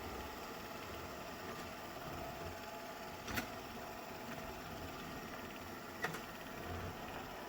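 Robot vacuum running steadily, its motor and brushes making a low hum, with two sharp clicks or knocks, one about a third of the way in and one near the end.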